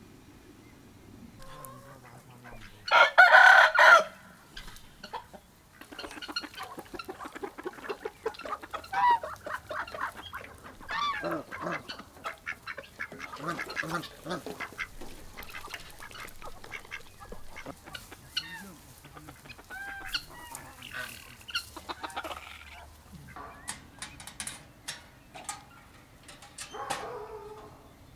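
Chickens clucking, with one loud call lasting about a second about three seconds in, then many short calls.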